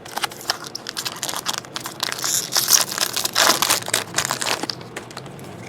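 Crinkling and tearing of a foil trading-card pack wrapper being torn open and handled, a dense crackly rustle loudest in the middle that dies away about a second before the end.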